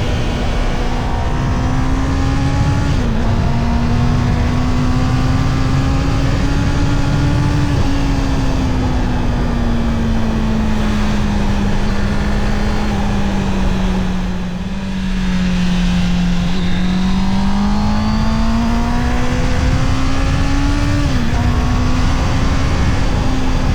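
Honda CB650R's inline-four engine pulling under way, its pitch climbing slowly, then falling as the throttle eases about two-thirds of the way through, then climbing again. The pitch drops briefly twice, early on and near the end, like quick gear changes.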